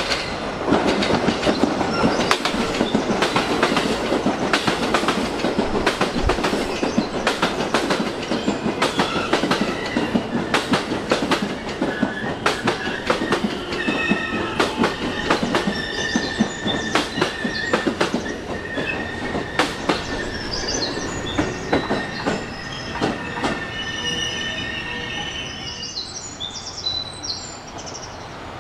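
An electric commuter train runs fast into the platform, its wheels clattering over the rail joints. About halfway through, high steady brake squeal sets in as the train slows, and the clatter thins out until both die away near the end.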